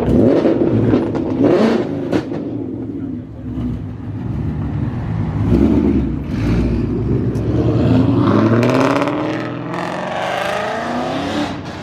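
Car engines revving and accelerating. The pitch climbs in a couple of pulls in the second half.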